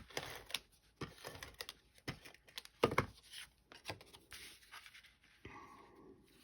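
Cardstock pieces being handled and set down on a work surface: soft paper rustling with about five light taps, the loudest about three seconds in.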